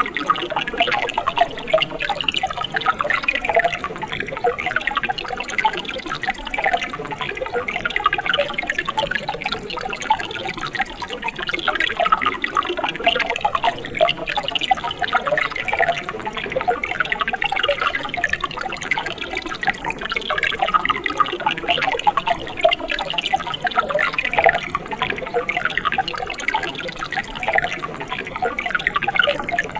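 Water of a mountain stream running steadily, a dense continuous gurgle with many small splashes.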